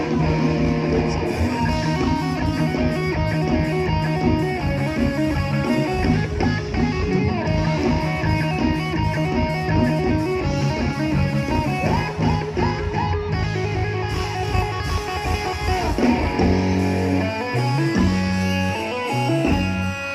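Live band playing an instrumental passage led by electric guitar over bass and a steady drum beat; from about 16 seconds in, the drums drop out and held bass and guitar notes carry on.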